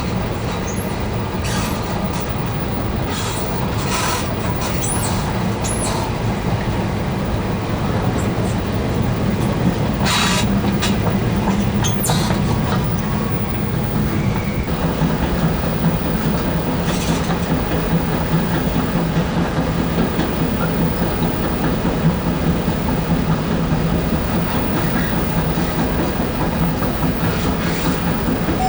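Escalator running: a steady low mechanical hum and rumble with scattered clicks and rattles. The hum shifts a little lower about halfway through.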